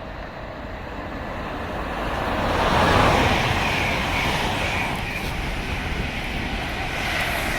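LNER InterCity 225 electric express train passing at speed: a rushing rumble that swells to its loudest about three seconds in, then carries on steadily as the coaches go by.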